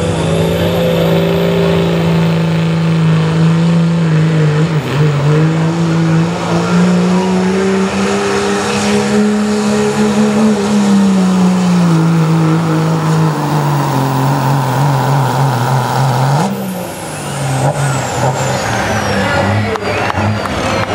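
A pulling truck's engine run hard under heavy load while dragging the weight sled. Its pitch wavers, dips briefly about five seconds in, climbs and sinks again, then drops off suddenly about sixteen seconds in as the engine is let off.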